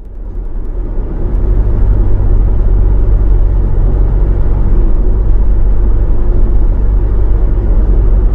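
Steady low rumble of a moving vehicle, fading in at the start and then holding even.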